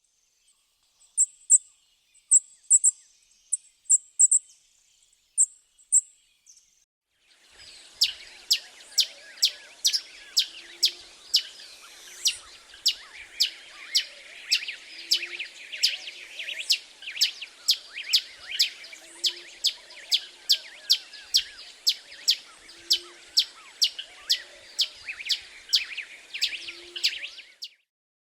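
Birds chirping. First come a few sharp, high chirps in pairs; then, after a short pause, a dense chorus of many birds with one sharp high chirp repeating about one and a half times a second, which cuts off abruptly near the end.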